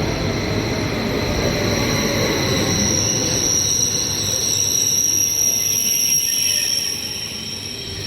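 Passenger train pulling into the station and slowing, a steady high squeal from its wheels and brakes over the rumble of the cars. The rumble dies down near the end as the train comes to a stop.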